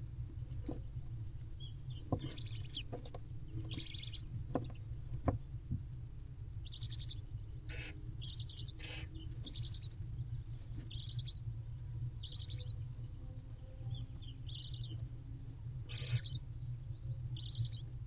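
High bird chirps: a quick run of about four chirps that recurs about every six seconds, between short raspy calls, over a steady low hum and a few sharp knocks.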